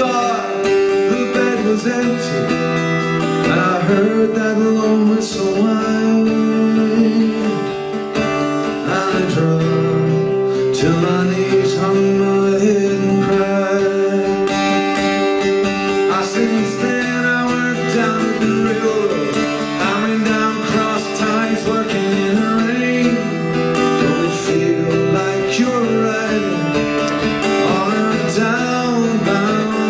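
Acoustic guitar playing an instrumental passage of a folk song, strummed and plucked.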